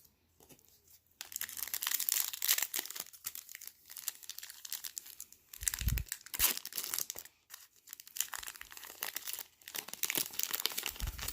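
Plastic wrapper of a Rookies and Stars trading card pack crinkling and tearing as it is torn open and peeled back by hand, with dense crackling starting about a second in and a soft thump about halfway through.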